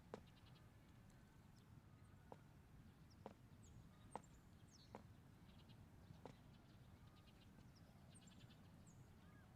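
Near silence: faint background hum with a few scattered soft clicks and faint high chirps.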